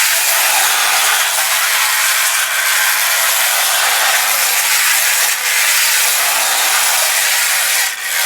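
Technofix tin toy shunting train running on its track: a steady, rough rattling whirr from its motor and wheels, dipping briefly a couple of times.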